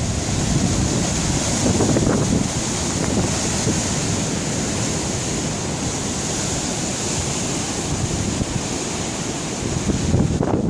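Hurricane-force wind gusting across the microphone over heavy surf breaking on the shore, a dense, loud, steady rush of noise.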